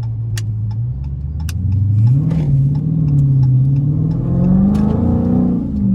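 Dodge Challenger Scat Pack's 392 HEMI V8 accelerating from low speed, heard from inside the cabin: the engine note climbs and grows louder from about two seconds in, then drops near the end as the automatic shifts up.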